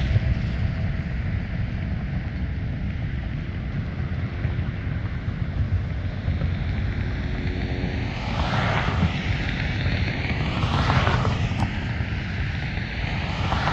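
Small propeller airplane's piston engine running steadily with a low rumble, swelling briefly twice later on.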